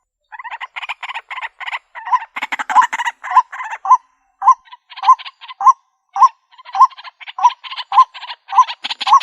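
White-breasted waterhen calls: a steady run of rasping notes, about two a second. The notes break off into silence for a moment about four seconds in, then carry on.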